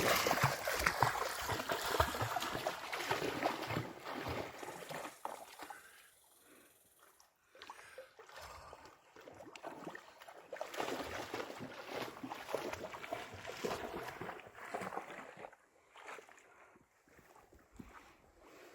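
Water splashing and sloshing irregularly as someone wades through a creek, dying away twice.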